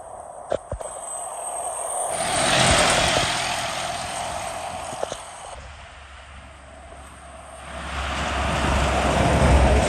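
Two road vehicles driving past, one swelling up and fading about two to three seconds in. A louder one builds near the end with a deep engine drone under the tyre noise.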